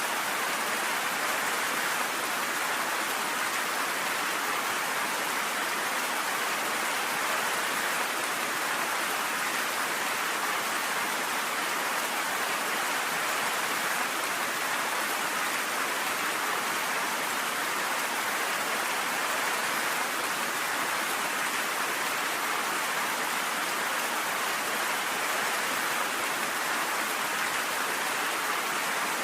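Steady rain falling, an even hiss that holds at the same level throughout, with no thunder.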